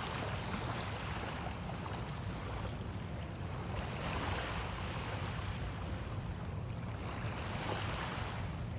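Small bay waves washing onto a sandy shore, the wash swelling and easing every few seconds, over a steady low rumble of wind.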